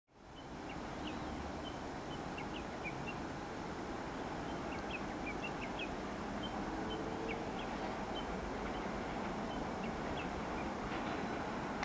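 Low rumble of an approaching Keio 7000 series electric train, growing slowly louder, with small birds chirping over it.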